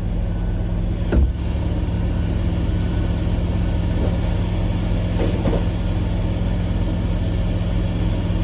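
Heavy construction machine's engine running steadily at an even speed, with a single sharp knock about a second in.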